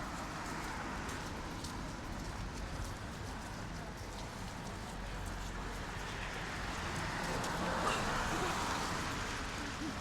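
City street ambience: a steady hum of traffic and tyre noise, with one vehicle passing close by, growing louder and fading again toward the end.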